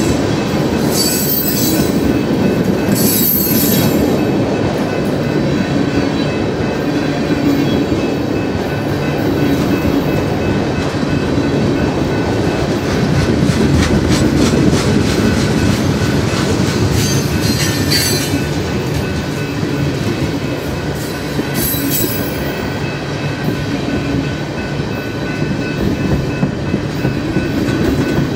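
Freight train cars rolling past at close range, steel wheels clacking rhythmically over the rail joints, with a few short high-pitched wheel squeals.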